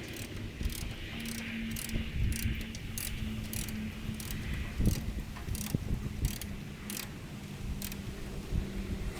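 Ratchet wrench loosening the stock horn's mounting bolt, its pawl clicking in short runs, about two or three clicks a second, with each back-stroke of the handle.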